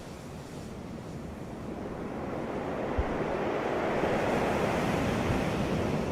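Sea waves breaking on a beach: the surf rush swells to a peak midway and eases off near the end, with wind on the microphone.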